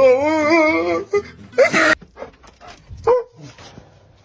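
A dog howling in a wavering, rising-and-falling pitch for about a second. It is followed by a short harsh burst and a few faint yips and scuffs.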